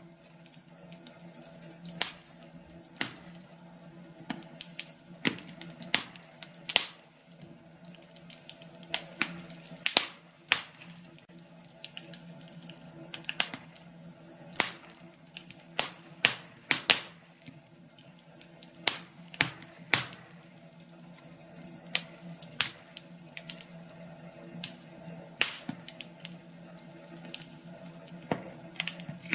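Wood fire burning in a fireplace, crackling with irregular sharp pops a few times a second, some much louder than others, over a steady low hum.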